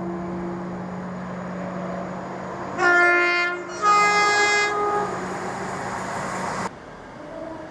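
A train's two-tone horn sounds two blasts, a lower note and then a higher one, over the steady hum of the train running. The sound cuts off abruptly near the end.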